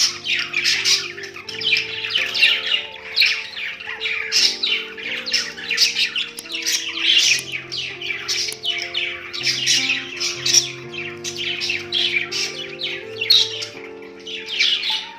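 Budgie chattering in rapid, unbroken chirps and squawks, over background music of held notes that change in steps.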